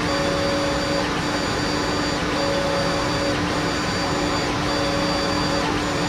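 Laser engraver etching acrylic: a steady rush of its exhaust fan and air assist, with the head's stepper motors whining on and off about once a second as the head sweeps back and forth.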